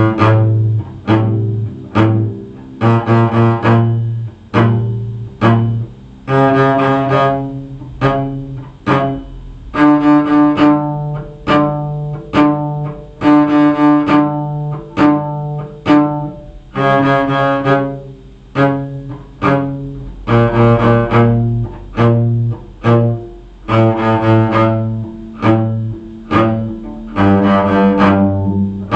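Bowed string instrument playing a D harmonic minor scale in short, separate strokes, each note given the 'strawberry, up, up, up' bowing played close to the frog.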